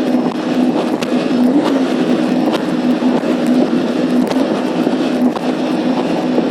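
Jet ski engine running steadily at a near-constant pitch, under a rush of wind and water noise with scattered clicks.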